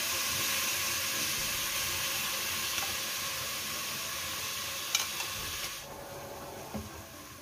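Mushrooms frying in a pan over a gas burner as canned sauce is poured in, giving a steady sizzle. The sizzle drops off abruptly about six seconds in, with a couple of light knocks around then.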